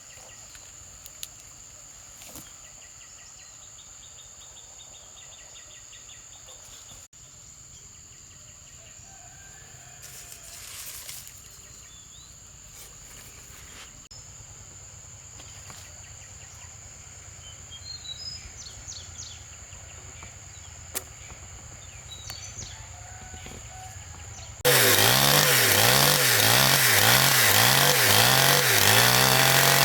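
Quiet outdoor background with a steady high whine and a few bird chirps. About 25 seconds in, a chainsaw's two-stroke engine cuts in loudly, its pitch rising and falling over and over as it revs.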